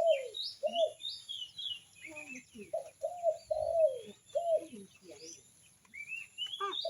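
Birds calling: short low notes repeated in runs of three or four with pauses between, with thinner high chirps over them.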